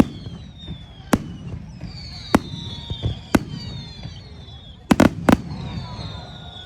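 Fireworks display: aerial shells bursting with sharp bangs about once a second, then a quick cluster of three bangs about five seconds in, with thin high whistles sliding down in pitch between them.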